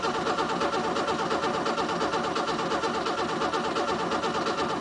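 1967 Mercedes engine being cranked by its starter motor without catching, in a steady rhythmic chug of about five compression pulses a second. It is a cold start after months of sitting, with dry fuel lines and the carburetor bowl just filled by hand.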